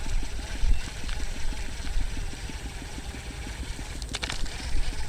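A small engine running steadily with a rapid, even beat, under the low rumble of wind on the microphone. A short rattling burst comes about four seconds in.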